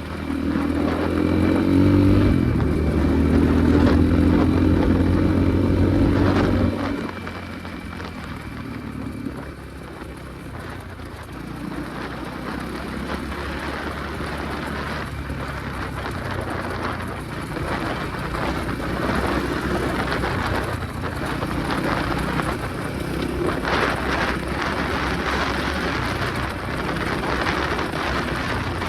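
Enduro motorcycle engine running loudly for about the first seven seconds, then cutting off suddenly. A steady rushing rumble follows.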